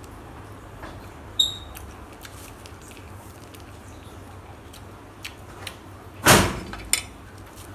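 A short ringing clink about a second and a half in, then a loud bang near the end with a smaller knock just after, over a low steady rumble.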